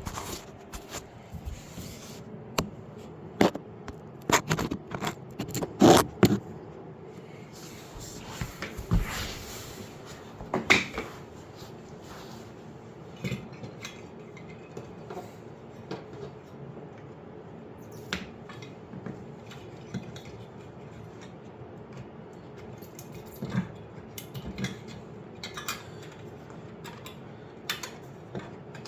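Irregular clicks, knocks and scrapes of hand work in a dishwasher's base: plastic wiring plugs, a metal cover and the replacement noise-suppressor part being handled and fitted. A cluster of louder knocks comes about four to six seconds in.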